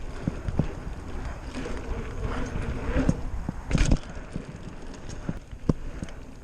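A bicycle rattling and knocking as it rides over rough, bumpy dirt, with irregular clatters throughout and one louder knock about four seconds in. Wind rushes on the microphone partway through.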